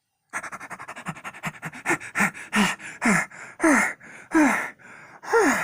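A person panting hard and out of breath after running. Quick short breaths slow into longer gasps that are partly voiced, each falling in pitch.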